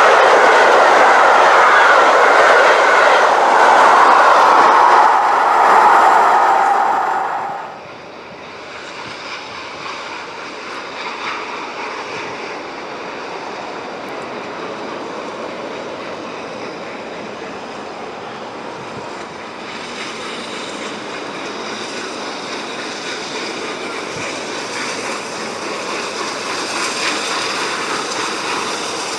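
Steam-hauled train running past on the rails, wheels clattering, loud at first. About seven seconds in the noise drops off suddenly to a quieter, steady rail rumble that slowly builds again toward the end.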